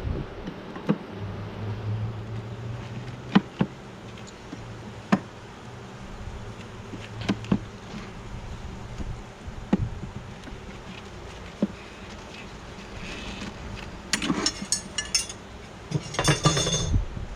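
Honey bees buzzing around an open hive, with a low hum and scattered sharp knocks from wooden hive parts. From about 14 seconds in comes a spell of rapid clattering as the parts are handled.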